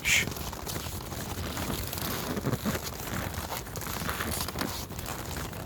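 Horse hooves crunching and creaking on packed snow in uneven steps. A short hushing "shh" from a person comes right at the start.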